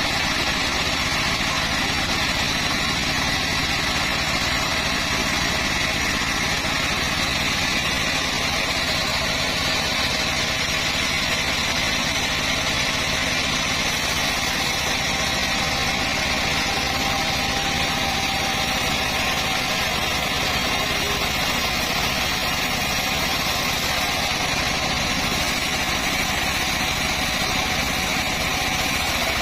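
Long-bar chainsaw engine running steadily at an even speed and level, with a constant high-pitched whine.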